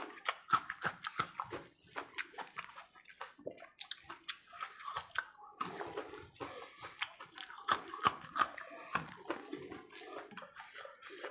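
Close-up chewing and biting of khichdi rice and a raw green chilli, a dense run of rapid mouth clicks and smacks.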